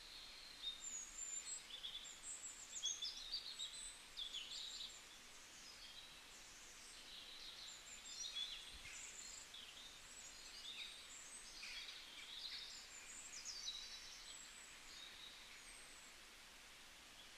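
Faint twittering of small birds: many short, high chirps close together, over a low background hiss.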